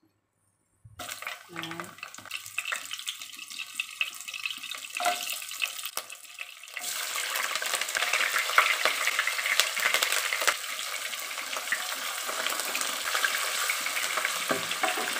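Aromatics going into hot cooking oil in a frying pan and sizzling. The crackle starts lightly about a second in, then becomes a much louder, dense sizzle about seven seconds in, as sliced onion and curry leaves hit the oil.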